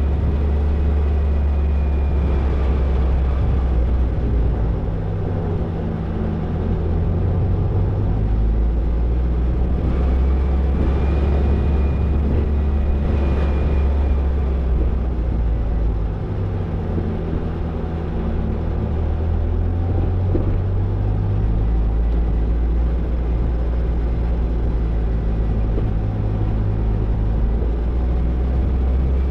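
Toyota Tercel 4WD wagon driving, its engine running with a steady low rumble. The engine note shifts up and down several times as the revs change.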